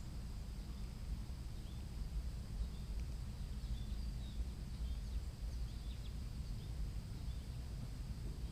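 Outdoor ambience: a steady low rumble under a thin, steady high-pitched whine, with faint, short bird chirps scattered through the middle.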